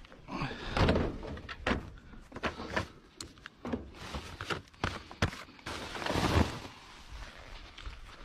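Thunks, knocks and scraping of a top-loading washing machine's metal cabinet and lid being handled and emptied, with two longer scraping swells, one about a second in and one around six seconds in.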